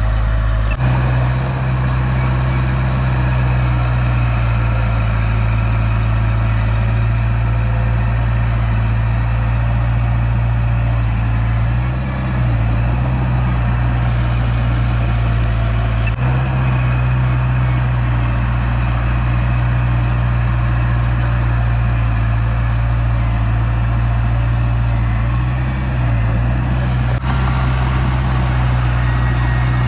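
Heavy construction machine's diesel engine running steadily, its note shifting slightly a few times.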